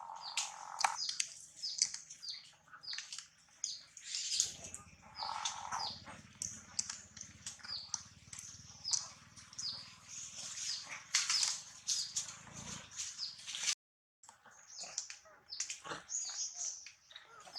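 Small birds chirping busily: many short, quick, high calls overlapping. A low hum runs underneath for several seconds in the middle.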